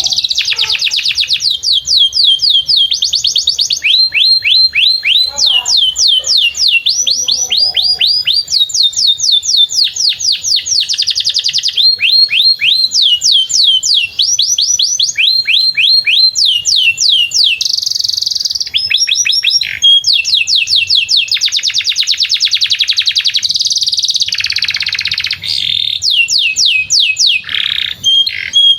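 Domestic canary singing a long, unbroken song: rapid trills of repeated down-sweeping whistled notes, switching from one trill pattern to the next every second or two with only brief gaps.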